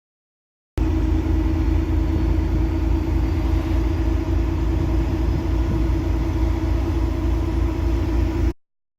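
A heavy diesel engine running steadily with a deep, even rumble. It starts abruptly just under a second in and cuts off abruptly near the end.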